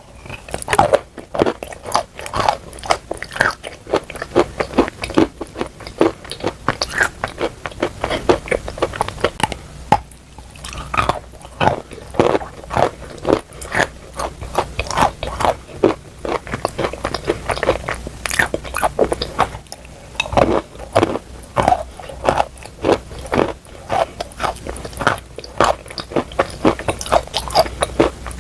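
Close-miked biting and chewing of chalk coated in clay paste, a continuous run of dry crunches and crackles, several a second, with no pause longer than a moment.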